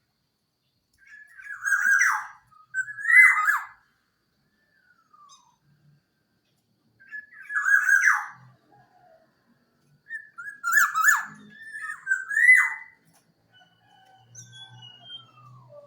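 Black-naped oriole (kepodang) singing: three bursts of clear whistled phrases with sharp downward slurs, each about two seconds long, separated by pauses with a few faint, softer notes.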